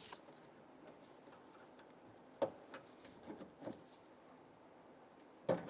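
A few faint, sharp clicks and lighter ticks as the door-lock wiring harness's retaining tab is worked free from the door shell: one sharp click about two and a half seconds in, a few lighter ones after it, and another sharp click near the end.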